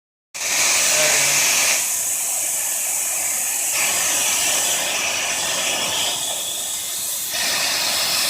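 Gas torch flame hissing steadily while heating a steel leaf spring.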